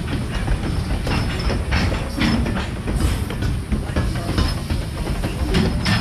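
Covered hopper cars of a freight train rolling past close by, with a steady rumble and wheels clicking and clattering over the rail joints.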